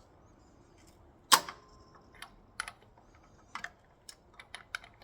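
Scattered metallic clicks with one sharp, louder clack about a second and a half in, as a Honda K24A engine is turned over by hand with a wrench. The mechanic, suspecting a timing chain fault, says the engine "ain't happy".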